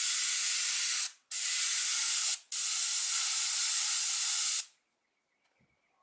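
Small paint spray gun hissing as it sprays paint in three bursts separated by short breaks. The last burst is the longest, about two seconds, and the spraying stops near the end.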